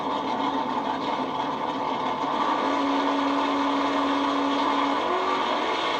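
Race vehicle engines running with a steady drone. A held engine tone sounds in the middle, then shifts higher about five seconds in.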